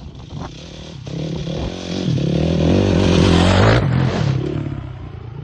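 Dirt bike engine revving, rising to its loudest about three seconds in, then easing off near the end.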